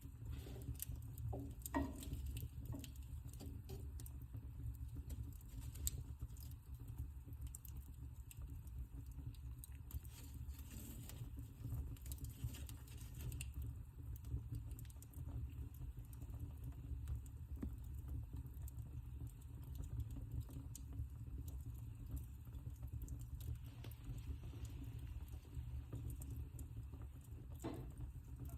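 Wood fire burning in a fireplace: irregular crackles and sharp pops scattered over a low, steady rumble of the flames.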